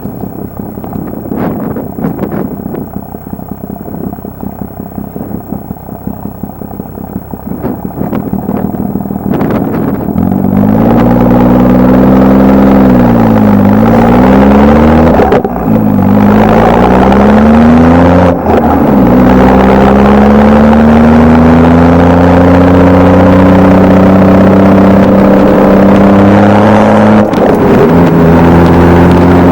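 Exhaust of a BMW 335i's N55 turbocharged straight-six through a stainless-steel Wimmer system, 3 inches from the catalytic converter, in sport mode. A low rumble for the first ten seconds, then much louder from about ten seconds in as the engine accelerates, its pitch falling and rising again with two brief breaks, then climbing slowly over several seconds.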